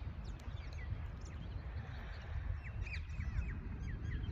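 Birds calling outdoors in short, quick chirps, a cluster of them about two and a half to three seconds in, over a steady low rumble.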